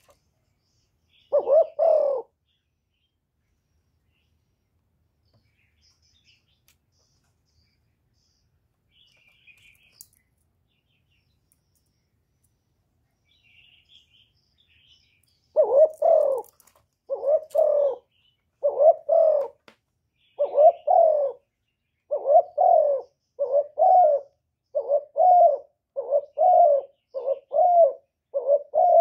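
Spotted dove used as a decoy, cooing: one coo, a long pause, then a run of about a dozen short, repeated coos that come quicker towards the end.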